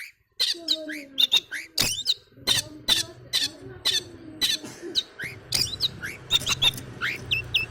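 Young long-tailed shrike practising its song: a quick, continuous run of harsh scratchy notes mixed with short upward-sliding whistles.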